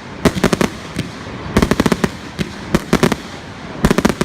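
Fireworks going off in clusters of sharp cracks and bangs, some single and some in quick rattling runs of several reports.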